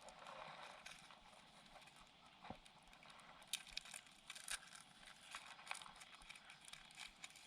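Near silence: a faint steady hiss with a few scattered small clicks and ticks.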